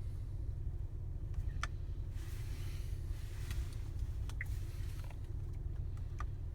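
Steady low hum inside a Buick Cascada's cabin, with a few soft clicks of dashboard controls being pressed.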